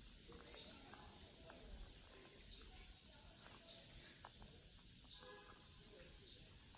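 Faint, scattered short chirps of small white-rumped munias, with one slightly longer call about five seconds in, over a very quiet background.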